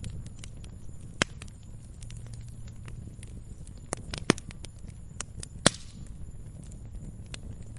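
Wood fire crackling in a fireplace, with scattered sharp pops, the loudest about a second in and near four and a half and six seconds, over a steady low rumble.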